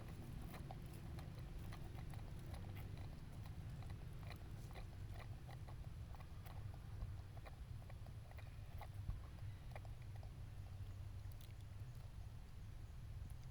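A baby monkey chewing food, with many small irregular clicks and crunches over a low steady rumble.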